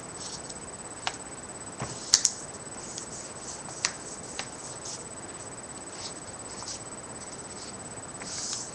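A sheet of A4 paper being handled and folded: intermittent crinkling and rustling with a few sharp clicks and taps, the loudest a pair of quick clicks a couple of seconds in.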